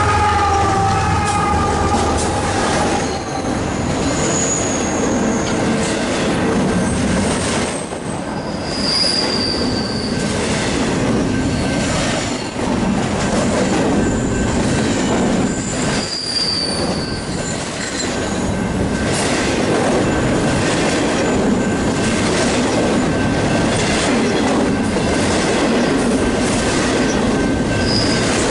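Union Pacific freight train of double-stacked containers on well cars rolling past at close range, a steady rumble and rattle with wheel clatter over the rail. Brief high wheel squeals come several times. The locomotive horn trails off in the first second or two.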